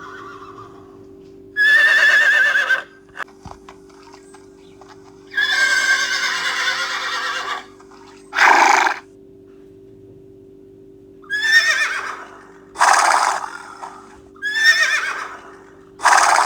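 Horse whinnying again and again: about seven high, quavering whinnies of different lengths, the longest about two seconds.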